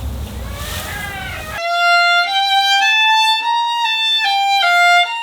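A stretch of rushing noise with a low rumble, then, about a second and a half in, a solo violin playing a slow melody of held notes stepping up and down.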